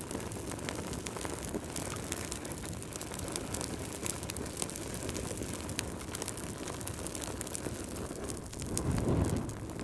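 Wood fire crackling, with frequent sharp pops over a steady low rush of flames that swells briefly near the end.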